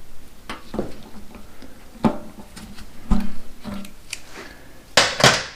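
Scattered light clicks and knocks of tools and parts being handled while working on a motorcycle, with two louder, longer scraping noises near the end.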